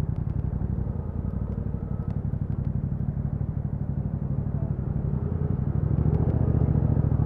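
2021 Yamaha MT-07's parallel-twin engine running through an Akrapovic exhaust with dB killers fitted, a steady, low pulsing note while riding. It gets louder about six seconds in.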